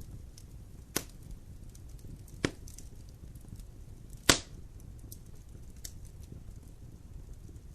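Wood burning in a fireplace: a low steady rush of flames with faint crackles and three sharp pops, the loudest about four seconds in.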